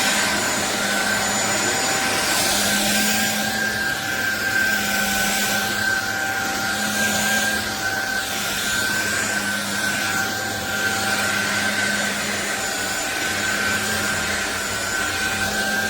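SunSare X7A cordless stick vacuum cleaner running steadily: a constant high motor whine over the rush of air, which swells and eases every couple of seconds.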